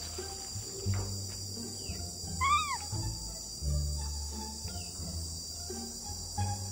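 Steady high drone of insects, heard under background music with a slow stepping bass line. About two and a half seconds in, a single short squeak rises and falls in pitch.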